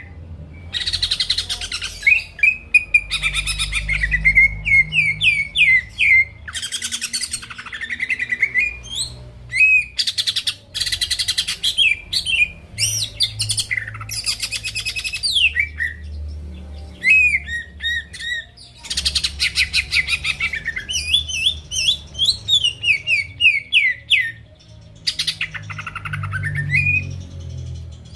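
Greater green leafbird (cucak ijo) singing continuously: a fast, varied song of sweeping whistled notes and quick chirp runs, broken up by harsh, buzzy rattling phrases.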